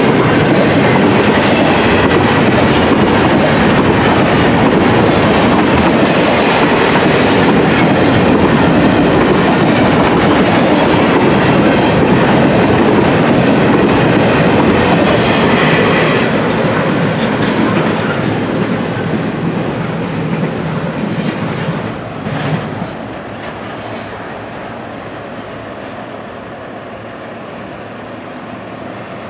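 Double-stack intermodal container cars of a freight train rolling past, a steady loud rumble of wheels on the rails. About halfway through it begins to fade, dying down as the end of the train goes by.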